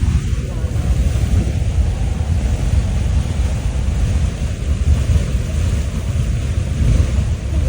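Beehive Geyser's cone jetting water and steam in full eruption: a steady, unbroken roar, with wind buffeting the microphone.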